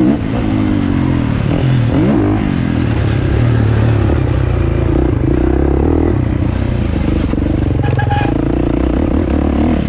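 A 450cc motocross bike's engine revving hard, its pitch rising and falling over the first few seconds, then running at a steadier pitch.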